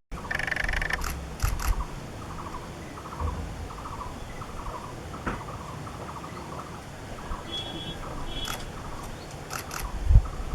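Outdoor birdsong: a bird repeats short notes at a steady pace, with a few higher calls past the middle. Several sharp camera shutter clicks come near the start and again near the end.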